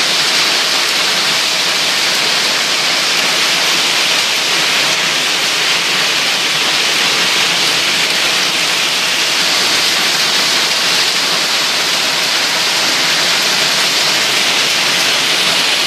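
Heavy downpour of rain, a dense, steady hiss with no let-up.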